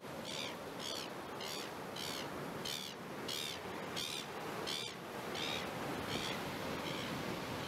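A bird calling over and over, a short high call about one and a half times a second, growing fainter over the last few calls, over a steady background hiss.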